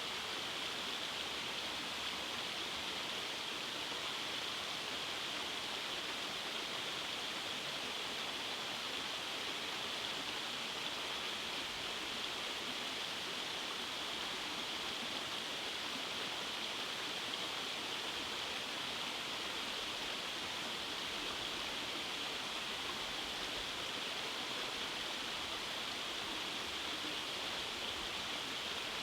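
Rainforest stream running over rocky cascades: a steady, even rush of flowing water.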